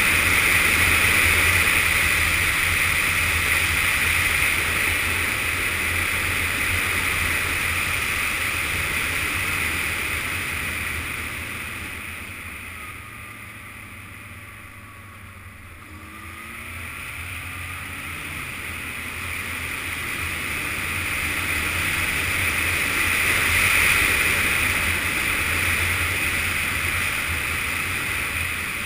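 Yamaha FZS600 Fazer motorcycle's inline-four engine running at road speed under a heavy rush of wind and road noise. About halfway through the sound drops away as the bike slows, and then it builds back up with a rising engine note as the bike speeds up again.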